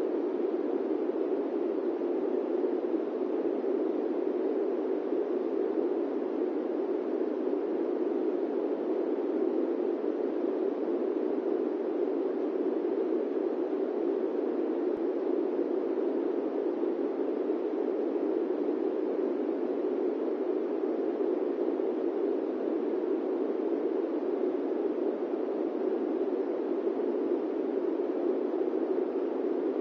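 Steady airplane-cabin white noise: a deep, even rush that never changes, with no engine tones or separate sounds in it.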